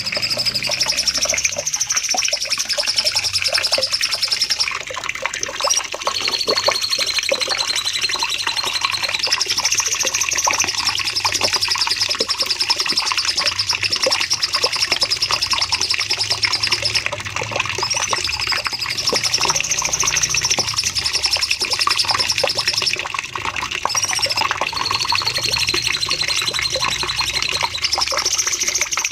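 A cucak cungkok singing its long, fast 'nembak' song: high, buzzy trills of very rapid notes, each held for several seconds, with brief breaks between phrases.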